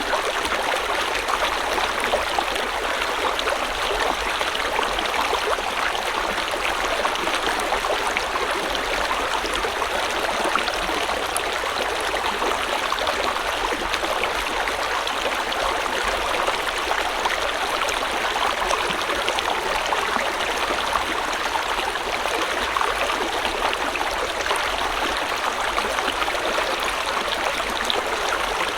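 River water flowing steadily over stones, a continuous rushing and trickling with no breaks.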